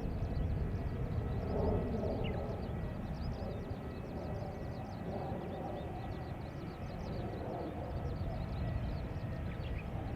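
Boeing 737-800's CFM56-7B jet engines running on the ramp during engine start-up: a steady low rumble with a faint, even whine. Many short high chirps are scattered over it.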